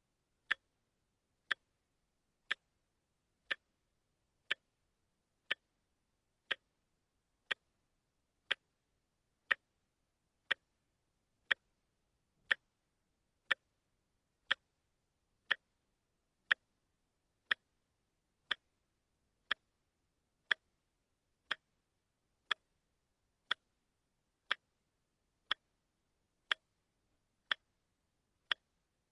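Quartz watch ticking once a second: short, sharp, evenly spaced clicks with near silence between them.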